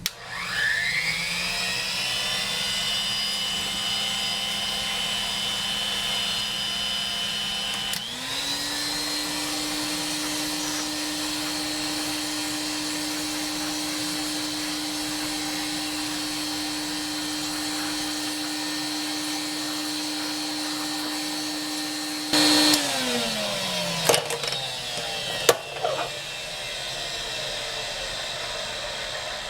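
Vacuum cleaner starting up with a rising whine and running steadily. Its pitch steps higher about eight seconds in. It is switched off near the end and winds down with a falling whine, followed by a few knocks.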